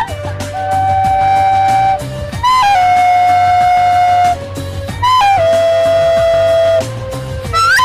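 Music: a flute-like wind instrument plays three long held notes, each entered with a quick slide, over a steady low backing, and slides upward near the end.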